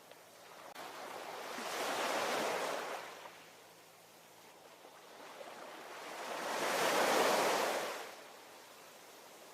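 Ocean waves breaking on the shore: two waves swell up and wash in, about five seconds apart, each surging for roughly two seconds and then fading back to a steady wash of surf.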